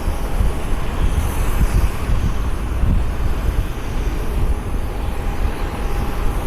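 Steady rumble of a Southwest Boeing 737's jet engines with a faint steady whine, and wind buffeting the microphone.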